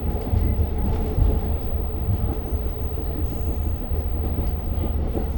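Long Island Rail Road commuter train running between stations, heard from inside a passenger car: a steady, loud low rumble of the car and its wheels on the rails.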